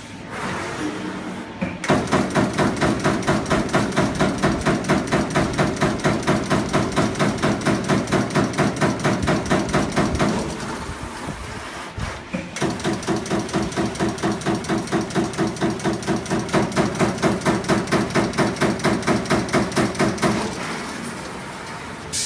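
CNC punching machine punching in rapid succession, about five strokes a second, in two long runs separated by a pause of about two seconds.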